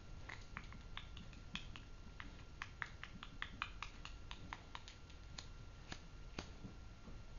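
An irregular series of short, sharp clicks, a few per second, stopping about a second before the end.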